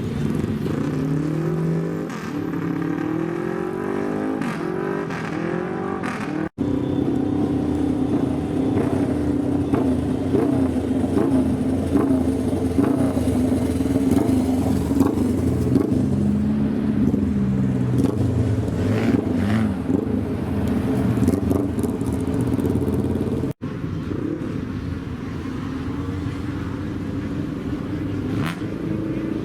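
Modified old cars' engines and exhausts revving: a run of quick revs rising and falling in pitch, then a loud, steadier engine note that swells now and then.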